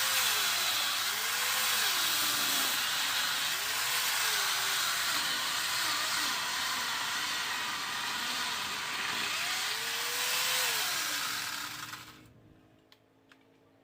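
Angle grinder fitted with a chainsaw adapter, cutting wood. Its motor pitch rises and dips again and again as the chain works through the cut. The sound cuts off about twelve seconds in.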